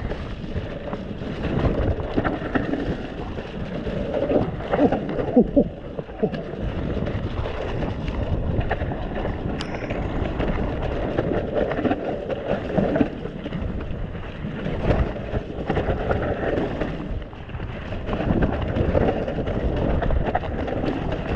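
Mountain bike riding down a wet, muddy descent: wind rushing over the microphone, with tyres in mud and the bike rattling and knocking over roots and bumps.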